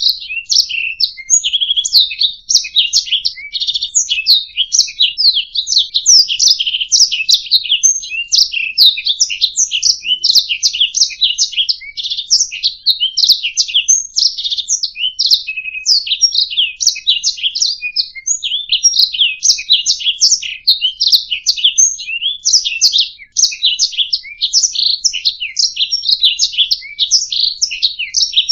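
Domestic canary singing a long, continuous song of rapid chirps, rolling trills and whistled notes.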